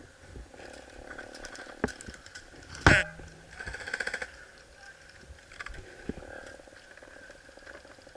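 Airsoft electric gun firing a short full-auto burst, a quick run of rapid clicks about half a second long, just after a sharp loud knock about three seconds in; scattered single clicks and knocks elsewhere.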